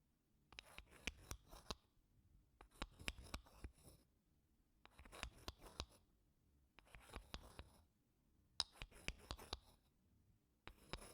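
Wooden spoon scraping across wooden blocks in short, soft strokes, about one every two seconds, each stroke a quick run of small clicks and scratches with a brief hush between.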